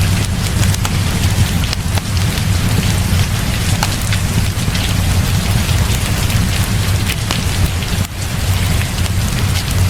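Heavy rain falling steadily, a dense even hiss over a deep low rumble, with scattered sharp clicks throughout.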